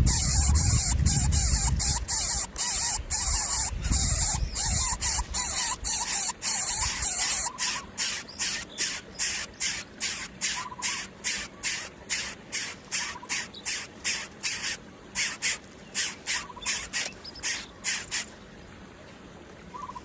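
Young birds of prey hissing: a steady hiss at first with a low rumble under it, then breaking into regular hisses about two a second, which stop a couple of seconds before the end.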